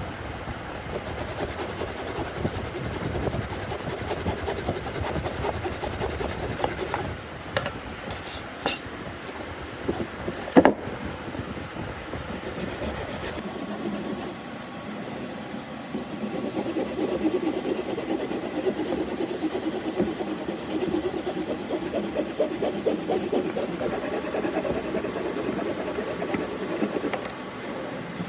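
Wood being worked by hand with quick, repeated back-and-forth strokes, a dry rubbing, rasping noise. There is one sharp knock about ten seconds in, and the strokes grow louder and more regular in the second half.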